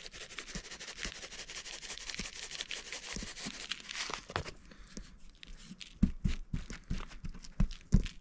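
Raw beef tomahawk steaks being seasoned by hand: a grainy, crackly rustle for the first half, then a run of soft, irregular pats and thumps as the meat is handled and the rub pressed in.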